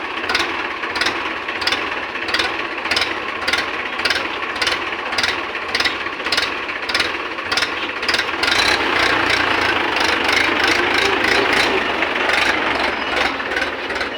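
Tractor diesel engine running, with a regular ticking rattle a little over twice a second. About eight seconds in, the engine gets louder and heavier, as if revved up.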